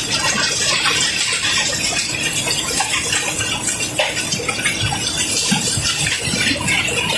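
Cobblestones pouring and clattering in a steady stream: a dense rush of many small stone-on-stone clicks that keeps going without a break.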